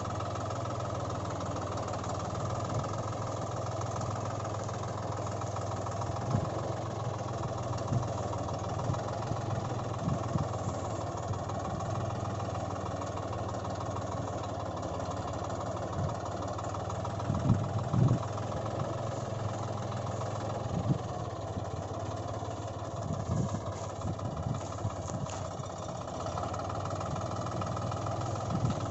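Engine idling steadily, with scattered low knocks; the loudest knocks come about eighteen seconds in.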